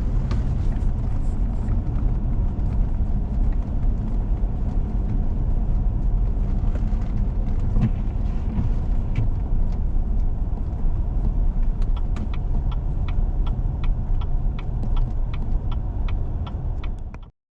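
Car interior on a snowy road: a steady low rumble of engine and tyres. About two-thirds of the way through, a turn signal starts ticking evenly, about three clicks a second, as the car nears a junction. The sound cuts off suddenly near the end.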